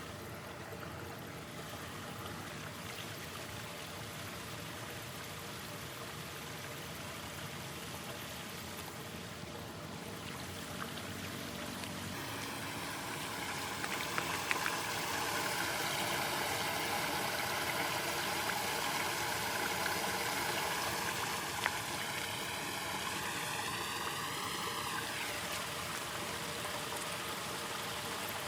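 Floodwater rushing and gurgling down a cleared storm drain, the flow growing louder about halfway through. A wavering, whistle-like tone rides over it for a few seconds near the end.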